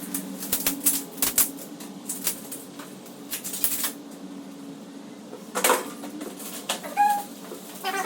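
Light clicks, taps and knocks from pressure washer parts being handled and fitted, most of them in the first half and again near the end, over a steady low hum. A short squeak comes about seven seconds in.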